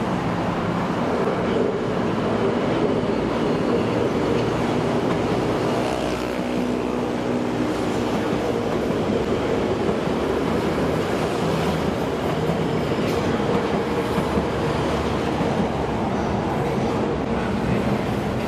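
Electric train running by on the line: a steady rumble of wheels and running gear, with a faint tone from its motors around the middle.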